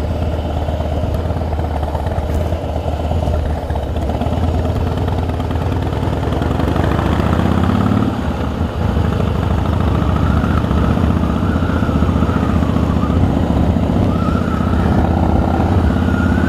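Harley-Davidson Rocker C's V-twin engine running under way, with a brief dip about halfway through before it pulls steadily again.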